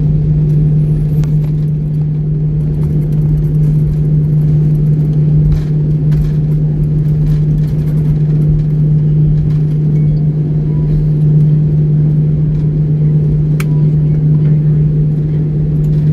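Steady low drone and hum of a jet airliner's cabin as the plane taxis after landing, with engines and air system running, and a few faint clicks from inside the cabin.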